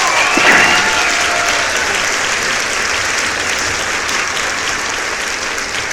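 Applause, a dense steady clapping that slowly fades, with a short gliding tone just after the start.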